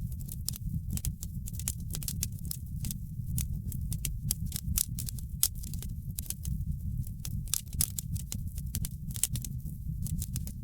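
Wood fire crackling in a fireplace: a steady low rumble with many sharp, irregular pops and snaps, several every second.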